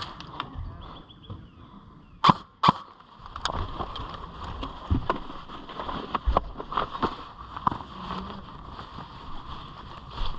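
Two sharp snaps about half a second apart, a couple of seconds in, amid scattered lighter clicks and ticks over a steady hiss.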